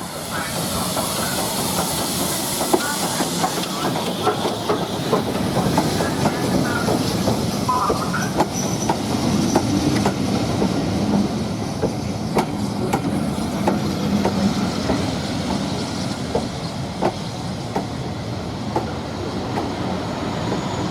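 Train running along the track: wheels clicking over rail joints, irregular sharp clicks over a steady hiss.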